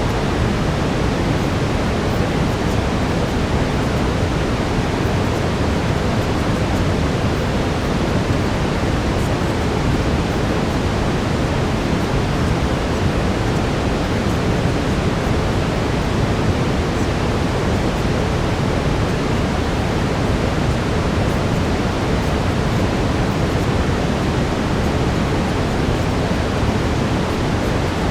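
Steady brown noise: an even, unchanging rushing hiss weighted towards the low end.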